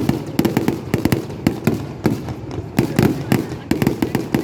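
Aerial fireworks going off in a rapid, irregular barrage: many sharp bangs and crackles a second, overlapping with no pause.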